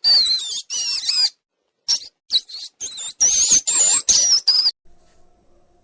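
Rodent squeaking, the call played for a rat or mouse: quick, high, wavering squeaks in two runs, stopping about four and a half seconds in.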